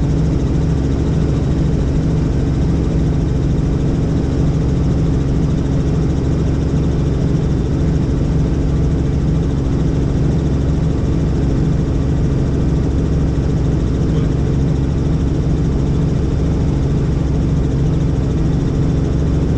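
Helicopter running steadily in flight: a constant engine-and-rotor drone with several low humming tones that do not change.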